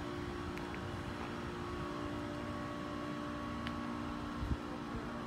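Steady low machine drone with several held pitches, from idling equipment on a parked passenger train. There are a couple of faint clicks and a soft thump near the end.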